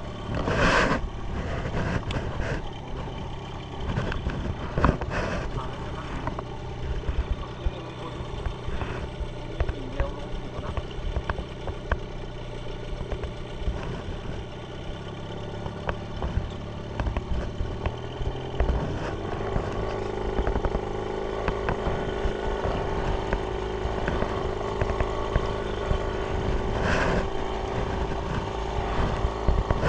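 A small boat's engine running steadily while underway, its note shifting about two-thirds of the way through.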